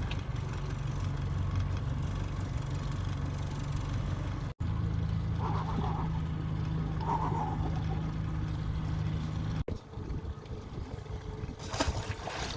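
Boat's outboard motor running steadily with a low hum, in short clips joined by abrupt cuts. After the second cut, a little under ten seconds in, the hum drops away, leaving quieter noise.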